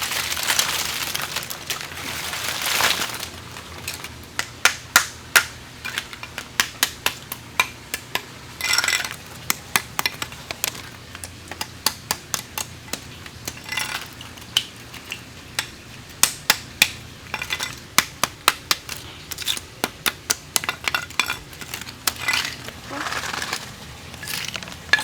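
Hard oyster shells clinking and clattering against each other as they are handled and put into a basket: a long run of sharp, irregular knocks, some loud, with a few short noisy rushes in between.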